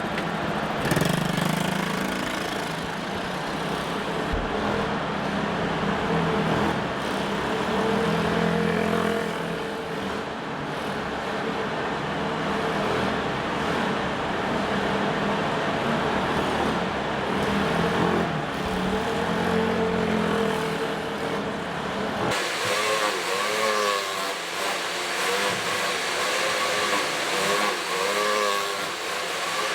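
IMR 90cc pit bike engine revving up and down as it is ridden around a track, the pitch rising and falling with throttle. About three-quarters of the way through, the sound changes abruptly to a higher, warbling engine note.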